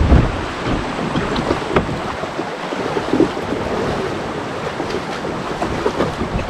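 Water splashing and sloshing around a kayak, with wind buffeting the microphone; the wind rumble is heaviest in the first moment.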